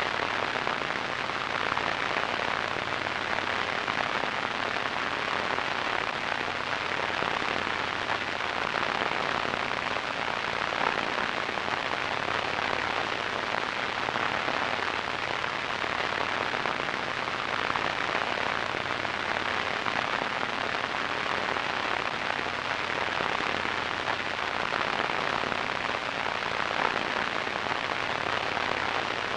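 Radio static: a steady hiss with fine crackling that does not change.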